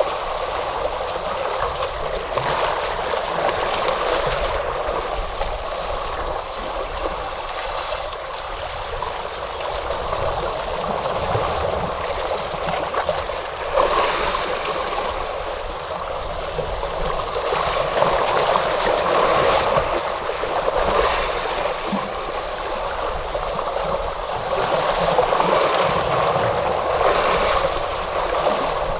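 Ocean waves washing onto a shore, a steady wash of surf that swells and eases every few seconds.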